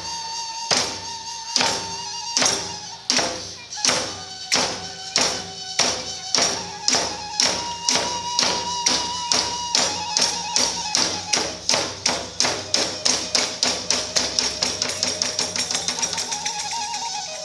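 Iwami kagura hayashi: drum and small hand cymbals struck together in a beat that speeds up steadily, from slow single strokes at first to about five strokes a second near the end, with a high flute melody held over it.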